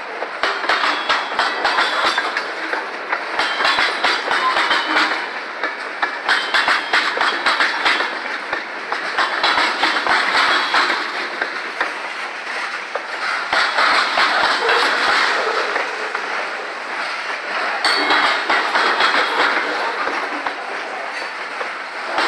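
Freight train cars (tank cars and covered hoppers) rolling past close by: a steady rolling rush from the steel wheels with many sharp clacks over the rail joints, swelling and easing as each set of wheels goes by.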